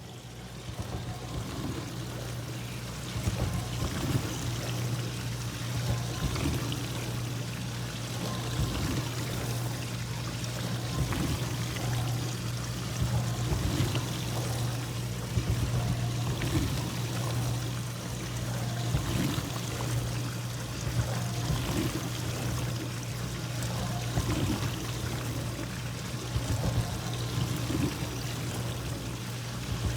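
Dishwasher running, heard from outside the closed door: water spraying and sloshing inside over a steady motor hum, with irregular surges of splashing.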